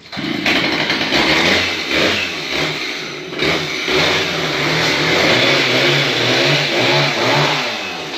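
Small petrol engine running and revving up and down, starting abruptly.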